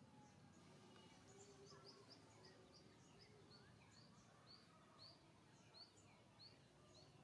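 Faint outdoor background with a bird chirping a run of short high notes, about three a second, starting about a second in.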